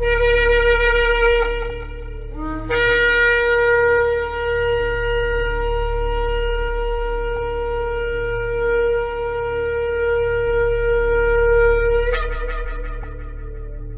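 Shofar blowing: a held note that breaks off briefly about two and a half seconds in, then one long blast of about nine seconds that ends in a sudden break and fades away.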